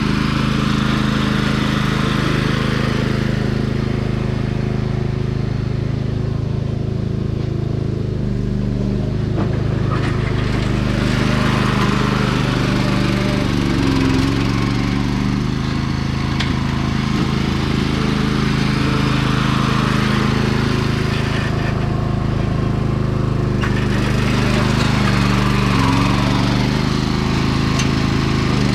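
Sears 10XL garden tractor's engine running steadily under load as it pushes dirt. A rougher, higher noise swells and fades several times over the steady engine drone.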